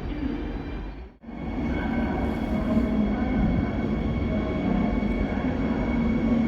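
Passenger train running at a station platform: a steady rumble with faint steady whining tones over it. The sound drops out briefly about a second in, then comes back louder and holds steady.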